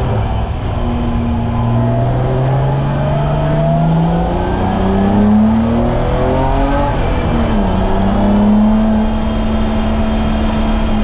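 BMW E30's M20B25 2.5-litre inline-six running under load at track speed, its note rising for several seconds as the car accelerates, dipping about seven seconds in, then holding steady.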